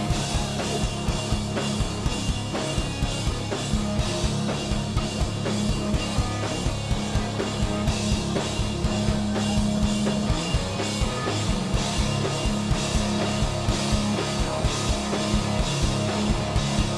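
Stoner rock band playing: drum kit keeping a steady driving beat under bass and guitar.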